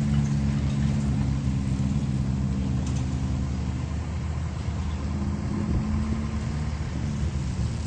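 Heavy-equipment diesel engine running steadily at an even pitch.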